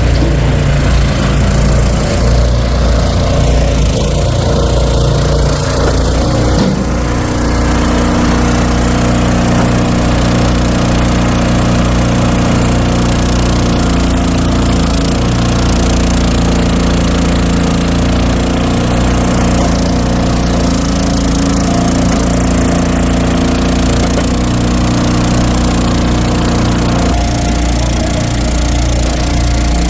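An engine running steadily, with its tone shifting about seven seconds in and again near the end.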